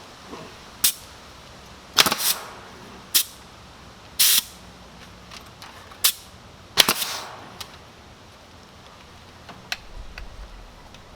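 Nail gun fastening cedar siding: about seven sharp shots at uneven intervals, a couple of them trailing a brief hiss.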